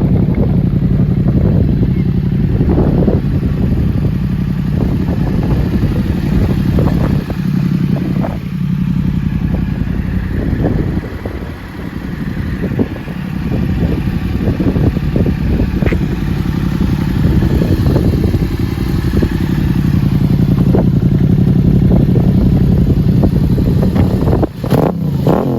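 Yamaha XSR700's parallel-twin engine idling through an aftermarket Akrapovic exhaust, with a steady, deep note. It eases off briefly about halfway through.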